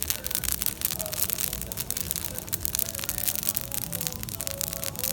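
Wood campfire crackling, with many quick sharp pops over a low steady rumble.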